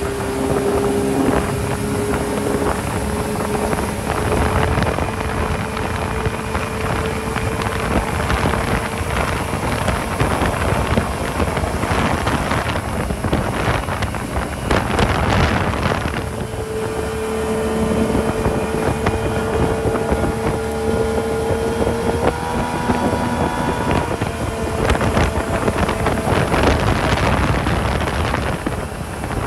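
Motorboat engine running steadily underway, with wind buffeting the microphone in gusts. The engine note steps up in pitch about three-quarters of the way through.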